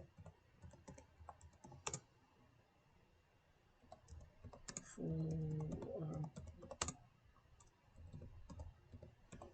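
Typing on a computer keyboard: scattered key clicks, with a short low hummed voice sound about five seconds in.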